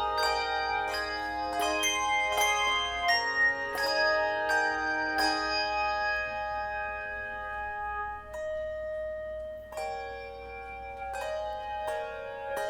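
Instrumental Christmas music of struck, ringing notes played in chords, each chord starting sharply and ringing on; the chords come quickly at first, then are held longer from about halfway through.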